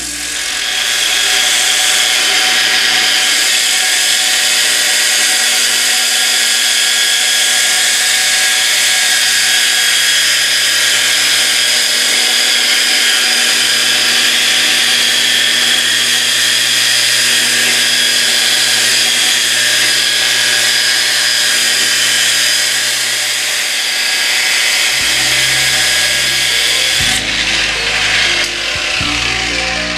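Variable-speed angle grinder spinning a dry diamond polishing pad against a marble countertop: a steady motor whine over a rough grinding hiss. It stops near the end.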